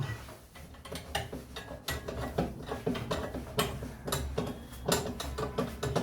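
Metal parts and hand tools clicking and tapping irregularly as a washing machine is taken apart for repair, about two or three sharp clicks a second.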